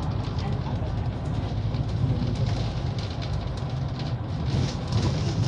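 Steady rumble of a moving vehicle heard from inside, with light rattles and clicks over it.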